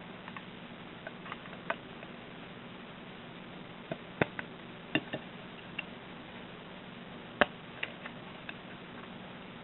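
Small plastic model parts clicking and tapping as they are handled and pressed together in snap-fit assembly: about a dozen irregular clicks, the loudest about four and seven seconds in, over a faint steady hum.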